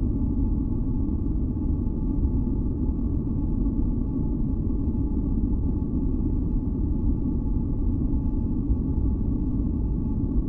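Steady deep rumbling masking noise, a sleep-sound track, with a few faint steady tones humming above it; it does not change.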